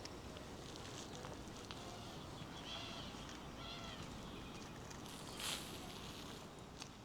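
Two short pitched animal calls, a little under a second apart, near the middle, over faint footsteps on a village street. A brief noisy scuff about five and a half seconds in is the loudest moment.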